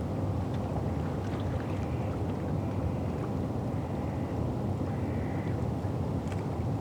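Steady low rumbling river ambience on the Thames foreshore, a constant noise of wind and distant river and boat sounds, with faint short high tones twice.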